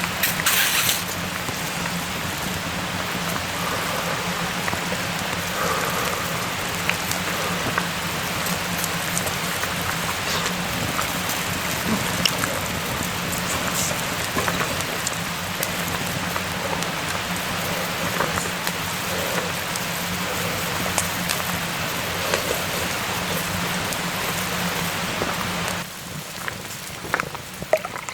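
Steady rain: a dense, even hiss dotted with small drop ticks. Near the end it falls away suddenly, leaving a few separate drips.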